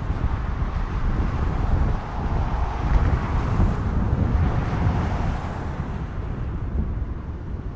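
Jet engines of a Boeing 767 freighter rumbling as it comes in to land, with heavy wind buffeting on the microphone. The engine noise swells to its loudest about three seconds in and eases off near the end.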